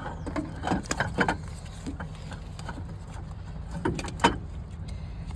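Scattered metal knocks and clicks as a Cummins ISX 15 water pump is wiggled and turned by hand to work it out of its housing. One cluster comes about a second in and another around four seconds in, over a steady low hum.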